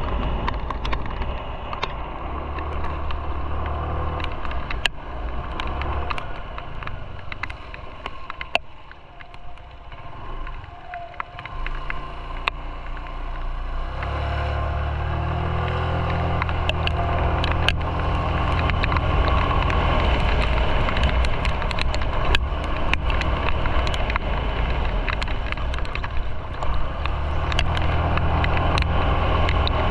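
Motorcycle being ridden: engine running with road and wind noise and scattered sharp clicks. The engine sound eases off for a few seconds, then about fourteen seconds in it comes back strongly and stays loud as the bike pulls away again.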